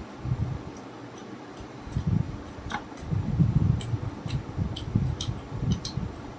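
Close-up chewing of chicken momo, an irregular run of soft low chews with many sharp wet mouth clicks and smacks.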